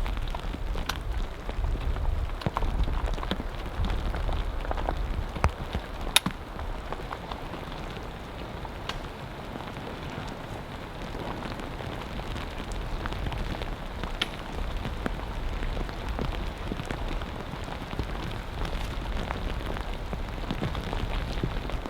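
Heavy rain falling steadily, with individual drops striking sharply close by; one drop about six seconds in is louder than the rest.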